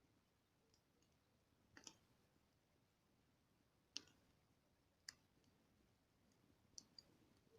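Faint campfire burning, its wood giving a handful of sharp, irregular pops and crackles over a low hiss.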